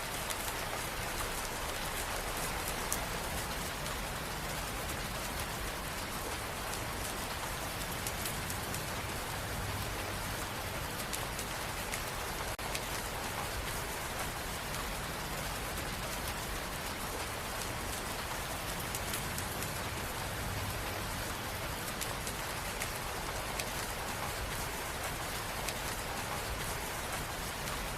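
Steady rain falling, a continuous even hiss with scattered drop ticks and a low rumble underneath.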